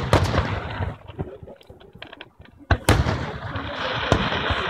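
Aerial fireworks shells bursting. A loud boom at the start rumbles away, and a second sharp boom about three seconds in is followed by a steady noisy tail.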